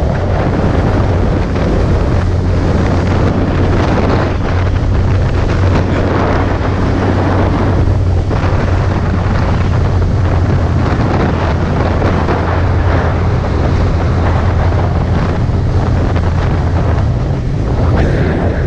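Wind rushing over the microphone of a moving motorcycle, with the steady low drone of the Suzuki GSX650F's inline-four engine underneath at an even speed.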